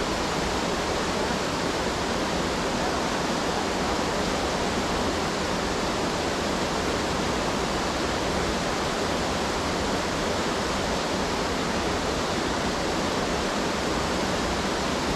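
Steady rush of a Class IV whitewater rapid, an even noise without a break.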